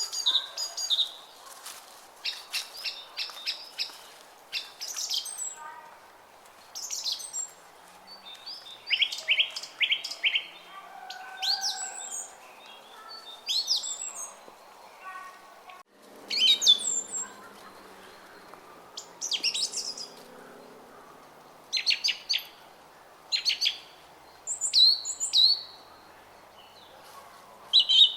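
Small songbirds chirping and twittering in quick repeated phrases, over the faint steady babble of a brook.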